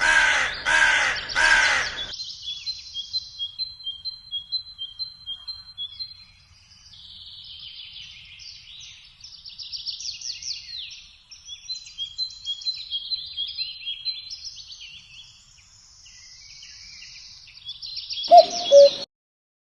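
Music cuts off about two seconds in, leaving small birds chirping in quick repeated high notes and trills. Near the end comes a loud two-note cuckoo call.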